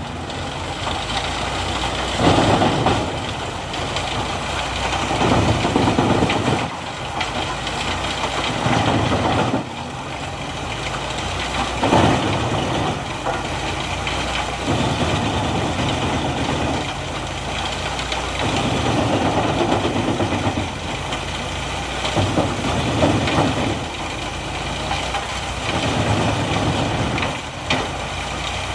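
Diesel engine of heavy machinery running steadily, its sound swelling and easing every few seconds.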